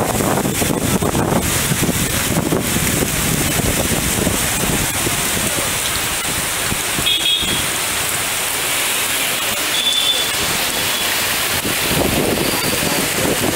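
Heavy rain pouring down onto a wet street, a loud, steady hiss. Two brief high-pitched tones sound over it, about 7 and 10 seconds in.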